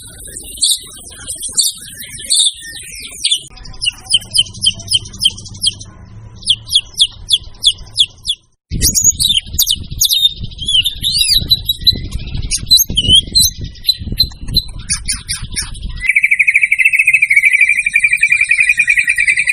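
White-rumped shama (murai batu) singing: rapid series of sharp chips and whistled notes, broken by a short gap about nine seconds in, then from about sixteen seconds a steady fast trill.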